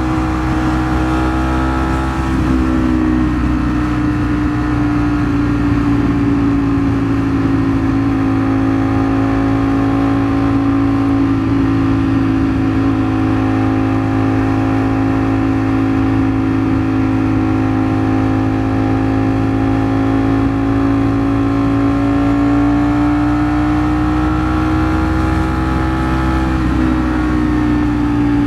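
Ducati Streetfighter V4 S's V4 engine running at a steady freeway cruise, holding one strong, even note. The pitch sags slightly about two seconds in, climbs gradually near the end, then drops back.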